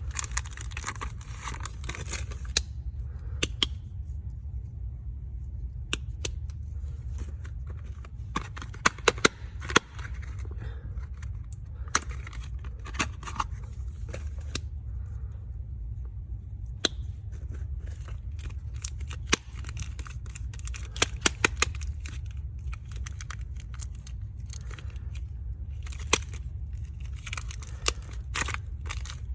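Soap bars being unwrapped: packaging crinkling and tearing, most densely in the first two seconds, with many sharp clicks and taps scattered throughout, over a steady low hum.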